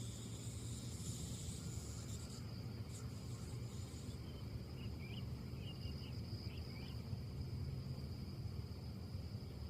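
Outdoor ambience: a steady low rumble under a constant high insect trill, with a brief higher buzzing early on and a few faint bird chirps about halfway through.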